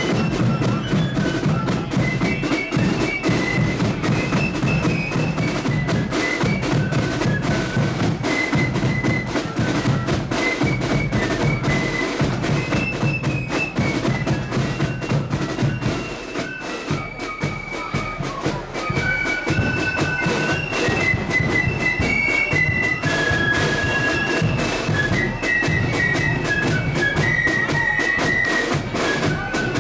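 Flute-and-drum marching band playing a tune: a high flute melody over steady snare and bass drumming. The band drops back briefly a little past halfway, then carries on at full volume.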